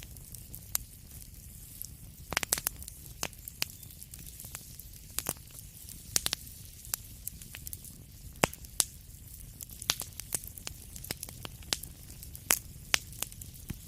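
Wood fire crackling: irregular sharp pops and snaps, some in quick clusters, over a steady low rumble of burning.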